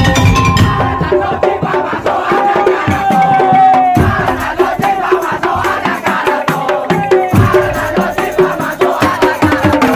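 Madurese tong-tong (ul-daul) ensemble playing: dense, fast percussion on slit drums and drums under a held melody line. The low drums drop out briefly about four seconds in and again just after seven seconds.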